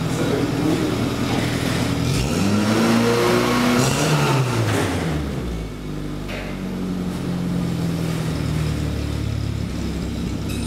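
Carburettor-fed BMW E30 engine running at the exhaust with an uneven idle: the revs rise and fall on their own, once sharply about two seconds in and again more gently later. This hunting idle is the sign of a carburettor out of adjustment.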